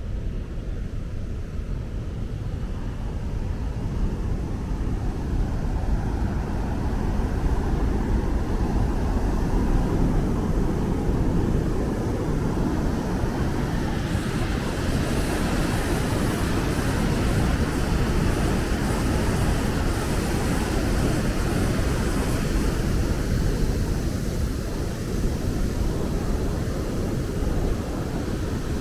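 Steady low rushing noise that swells over the first ten seconds or so and then holds, with a faint high hiss joining in the middle.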